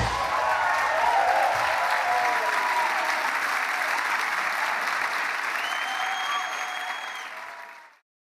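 Concert audience applauding and cheering after a rock song ends, with shouts and a whistle; it fades and cuts off near the end.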